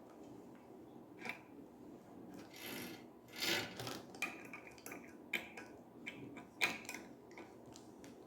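Wrench working on a metal shower fitting as it is tightened: scattered small clicks and metal knocks, with two short scraping rasps about two and a half and three and a half seconds in.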